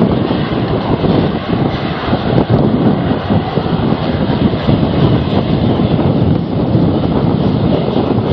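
Strong, gusty storm wind buffeting the microphone: a dense, rumbling roar that swells and dips.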